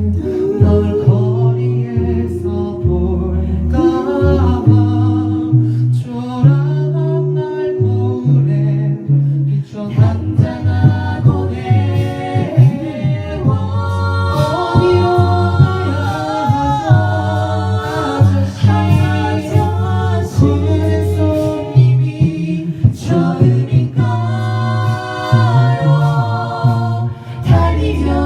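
A cappella vocal group singing live in close harmony, with a low sung bass line under the chords and sharp vocal-percussion clicks keeping the beat.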